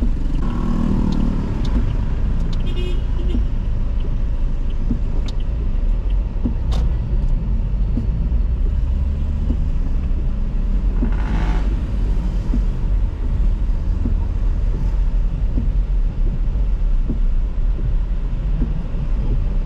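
Car driven slowly, heard from inside the cabin: a steady low rumble of engine and road, with occasional sharp clicks and a brief hiss about eleven seconds in.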